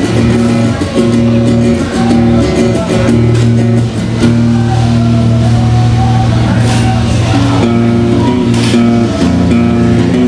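Guitar playing live: held, amplified chords ringing over a strong low bass line.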